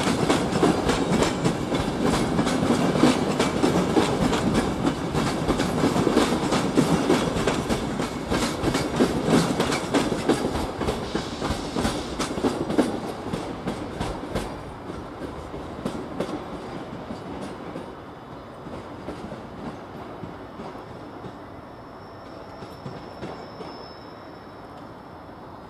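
Train of passenger coaches rolling out along the tracks, its wheels clattering in rapid clicks over rail joints and points. The clatter fades away about two-thirds of the way through as the train draws off.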